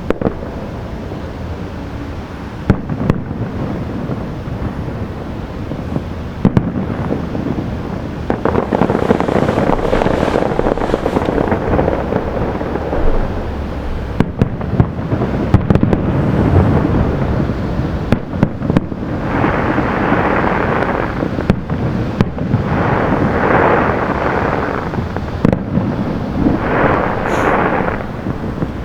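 Aerial fireworks display: shell bursts banging a dozen or so times at uneven intervals over a continuous low rumble, with several stretches of dense crackling lasting a second or more each.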